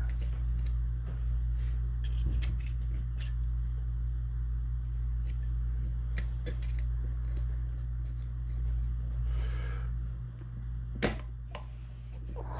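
Irregular small metal clicks and taps as steel parts and a spring of a Westernfield side-by-side shotgun's action are handled and compressed by hand, with one sharper click near the end. A steady low hum runs underneath.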